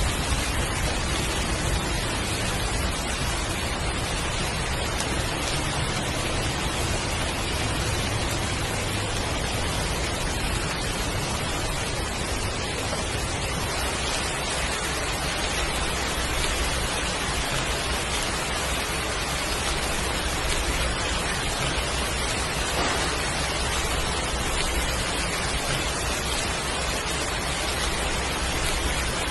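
Heavy, steady rain falling, a constant even hiss with a low rumble underneath.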